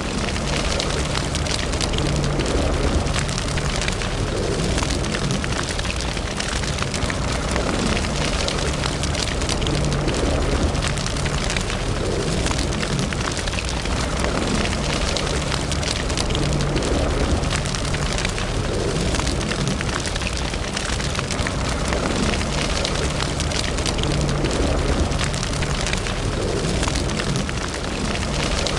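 Wood fire burning in a fireplace, crackling and popping steadily with many small snaps over a low, even rumble.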